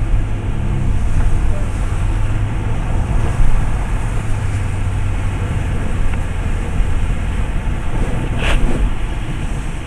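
Car driving: steady engine hum and road noise heard from inside the car, with one brief higher-pitched sound about eight and a half seconds in.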